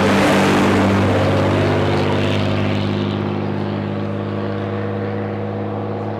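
A heavy vehicle's engine running steadily close by, with a rush of noise that peaks right at the start and eases over the next two or three seconds.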